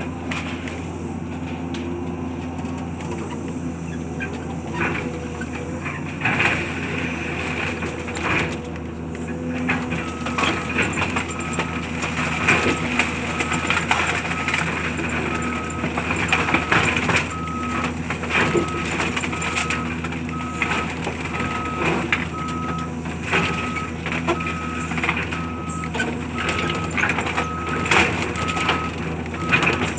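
Heavy machinery working on a demolition, its engine running steadily under repeated cracking and crunching of material being broken up. From about a third of the way in, a reversing alarm beeps about once a second.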